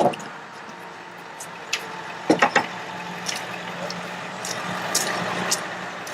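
Ford F550 bucket truck's engine running steadily with the hydraulic PTO engaged, with a few sharp knocks and clicks over it.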